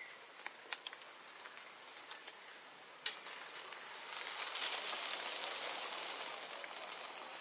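Rain pattering and dripping on forest leaves over a steady high hiss, with a few small ticks near the start and one sharp tick about three seconds in. The patter thickens into a denser crackly spell just past the middle.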